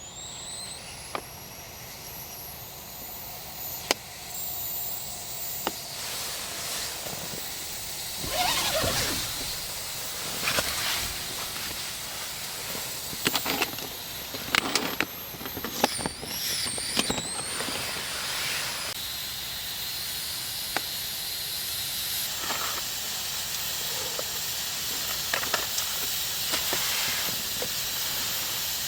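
MRE flameless ration heater hissing and steaming as it reacts with water, with a thin whistle at times. Crinkly plastic handling noises come in the middle.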